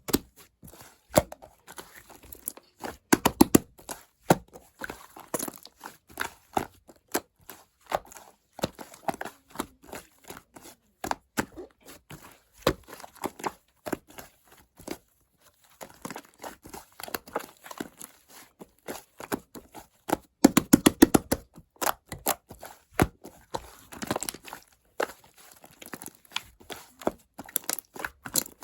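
Slime being kneaded and stretched by hand, with irregular wet clicks, pops and crackles as it folds and squeezes; louder clusters of pops come about three seconds in and again around twenty to twenty-one seconds in.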